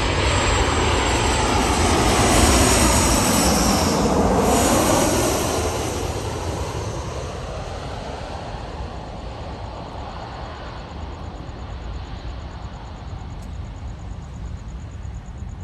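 Jet engines of a Southwest Boeing 737-700 (CFM56-7B turbofans) passing overhead, loudest about four seconds in and then slowly fading away.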